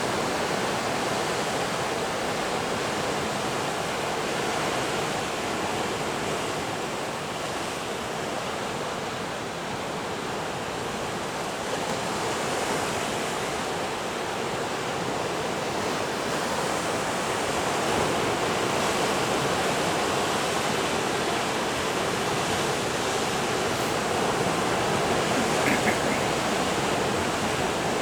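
Pacific surf breaking along the shore: a steady wash of ocean noise that swells and eases slowly.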